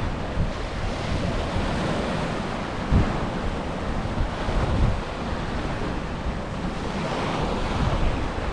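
Rough sea, waves breaking and surging on the shore, with wind gusting across the microphone in low rumbling buffets, the strongest about three seconds in.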